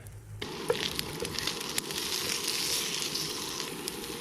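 Bacon and sliced common puffball mushrooms sizzling in a frying pan, with scattered sharp pops. The sizzle starts abruptly about half a second in.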